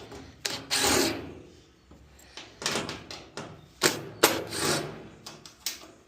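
Metal clicks, clinks and short scrapes of tools and screws being worked on a dryer's panels as screws are taken out, in irregular bursts with the loudest about a second in and again around four seconds in.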